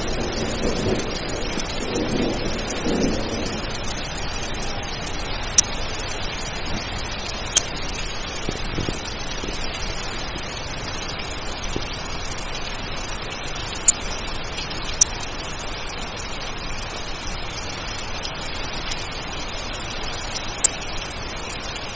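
Steady rain with a low rumble of thunder that fades over the first few seconds. A handful of sharp clicks are scattered through it.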